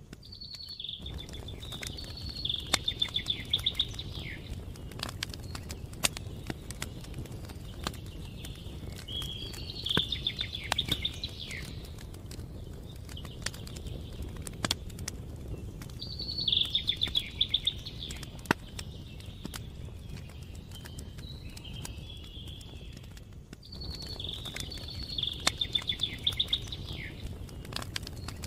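A songbird repeats the same short song four times, each phrase ending in a rapid trill, over a campfire crackling with scattered sharp pops.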